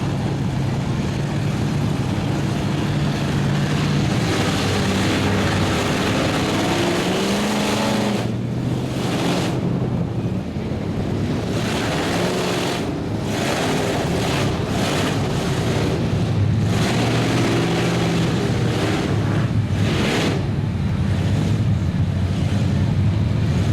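Big mud truck engines revving hard, the pitch climbing and falling as the throttle is worked, over a heavy steady rushing noise.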